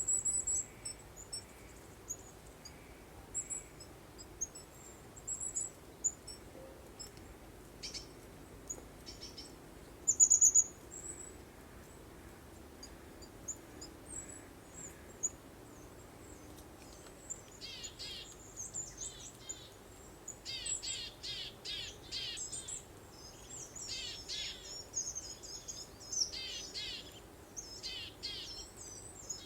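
Songbirds singing: scattered high chirps, then a busier stretch of quick, sweeping trilled notes from about halfway on, over a soft steady breeze.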